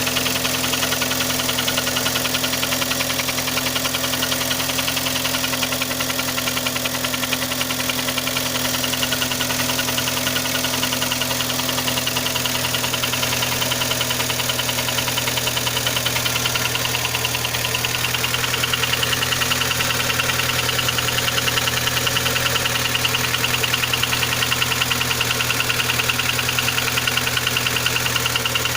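Third-generation Kia Sportage engine running steadily with a rapid, even knock that keeps time with the engine. The cause is unknown; the owner reports that the knock is stronger when the engine is cold and quieter once it is warm.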